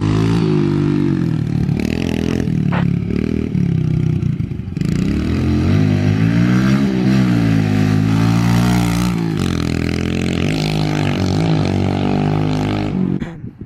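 Pit bike engine running close by, revving up and down several times as the bike rides around. It cuts off suddenly near the end.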